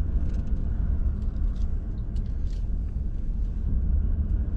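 Steady low rumble of a truck rolling slowly, heard from inside the cab, with scattered light ticks and clicks over it.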